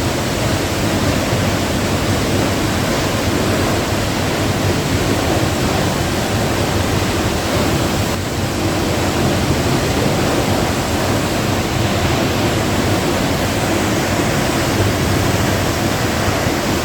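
Steady, even rush of a large waterfall pouring into the canyon.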